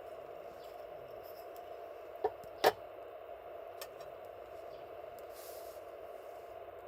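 Campfire with a steady low hiss and a couple of sharp pops close together about two and a half seconds in, then a faint tick a second later.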